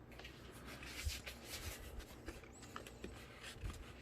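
Faint handling noises of a large foam model jet being shifted onto a stand: scuffs, rustles and light clicks, with duller knocks about a second in and again near the end.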